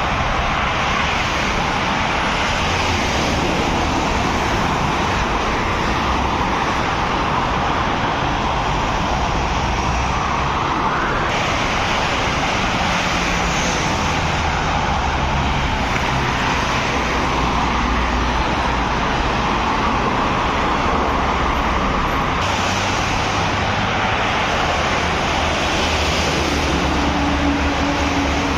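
Road traffic: trucks and cars passing, a steady hiss of tyres with low engine drone underneath, the mix changing abruptly about eleven seconds in and again about twenty-two seconds in.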